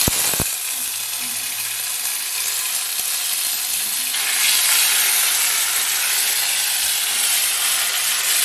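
Ginger-garlic paste sizzling as it hits hot oil and whole spices in a metal kadai, then stirred with a spoon. It starts suddenly with two sharp clicks, then settles into a steady hiss that grows a little louder about four seconds in.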